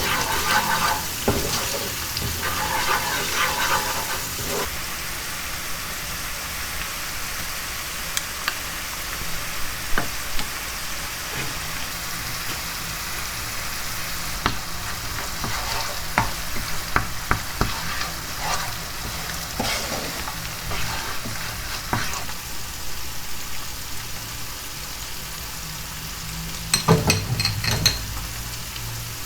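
Food sizzling in hot oil in a pan as it is stirred, with scattered clicks of the utensil against the pan and a short run of louder knocks near the end.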